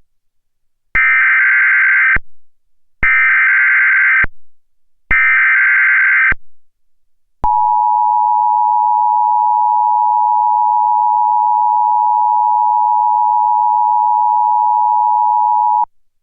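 Emergency Alert System header from an EASyPLUS unit: three bursts of SAME digital data screech, each about a second long and a second apart, encoding an Ice Storm Warning. Then a steady, single-pitched attention tone is held for about eight seconds and cuts off sharply.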